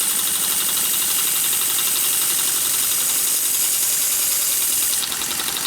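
Empire B43 toy live steam engine running fast under steam, a steady hiss with a rapid fine ticking from the running engine. The hiss eases slightly near the end.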